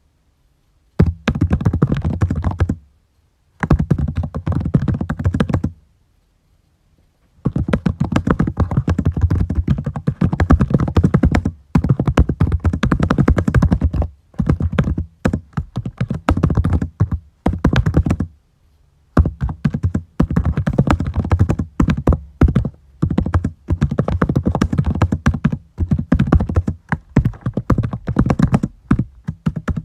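Fast typing on a computer keyboard: rapid runs of key clicks and thunks in bursts of a few seconds, broken by short pauses.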